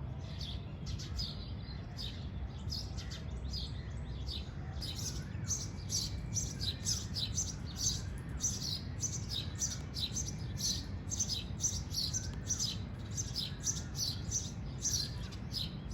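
Sparrows at nest boxes chirping in rapid, overlapping short chirps that grow denser about five seconds in, over a steady low rumble.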